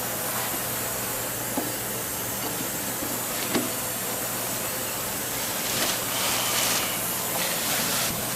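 Steady hissing noise, with two faint knocks in the first few seconds and a short stretch of louder rustling about six seconds in.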